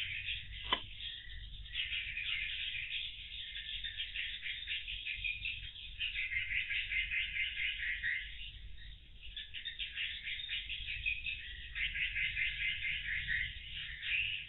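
Swiftlets chirping densely, many rapid clicking twitters overlapping without a break, with a low hum underneath and a single sharp tick about a second in.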